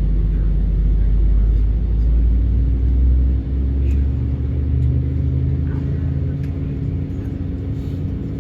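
Cabin noise of an Airbus A220-100 on its takeoff run, its Pratt & Whitney PW1500G turbofans at high power over a heavy low rumble. The rumble stops abruptly about three and a half seconds in, leaving a steady engine drone with a low hum.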